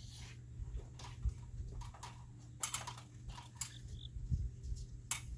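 Scattered light clicks and knocks of tools and lumber being handled while gluing up a beam, with sharper clicks about two and a half and five seconds in, over a steady low hum.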